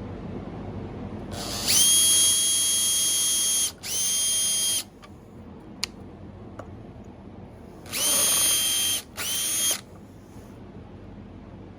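Power drill running in four short bursts, in two pairs, each spinning up with a rising whine, driving screws to fasten the maple blank to the lathe faceplate.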